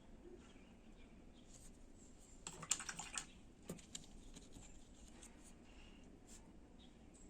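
Quiet background broken by a quick run of small clicks and taps about two and a half seconds in, with one more tap about a second later.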